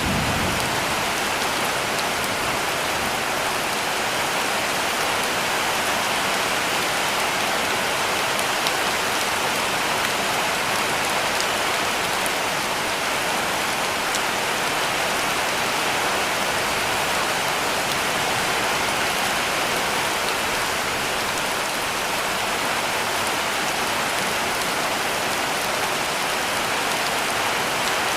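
Heavy rain falling steadily on a cabin roof: a dense, even hiss with a few faint scattered drop ticks.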